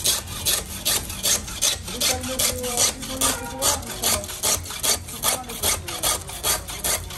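Hand tool rasping back and forth over a truck tyre in even, steady strokes, about two and a half a second.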